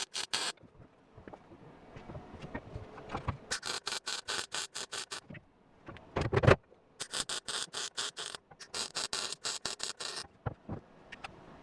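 Welder tacking a sheet-metal patch into car bodywork: three runs of fast crackling, each one to two seconds long, with a single louder thump just after six seconds in.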